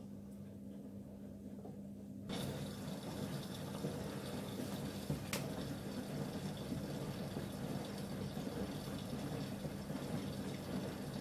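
Miele W1 WKF 130 WPS washing machine taking in water: a steady low hum, then about two seconds in the water inlet opens and water flows in with a steady hiss. A single click comes a few seconds later.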